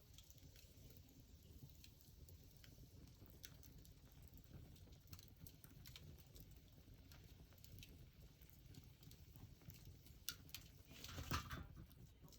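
Wood fire burning quietly, crackling with scattered small pops, and a brief louder flurry of crackles near the end.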